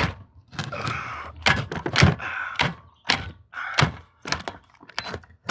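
A string of irregular sharp knocks and clunks, a dozen or so, of metal tools and parts being handled against a small engine during bolt removal.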